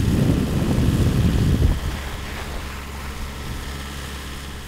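Rough, gusty low rumble of wind buffeting the microphone, dropping off about two seconds in to a steady low hum.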